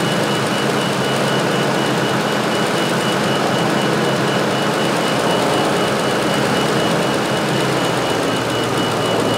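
2006 Ford F350 pickup engine running steadily with the hood open, with a steady high-pitched tone over it.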